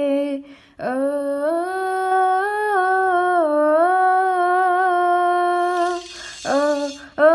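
A woman's solo unaccompanied voice humming a long wordless phrase, held notes bending slowly up and down, with a short breath about a second in and fresh phrases starting near the end.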